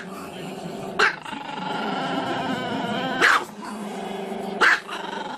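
Small black-and-tan Chihuahua giving three sharp barks, about a second in, past three seconds and near the end, with a drawn-out, howl-like growl held between them.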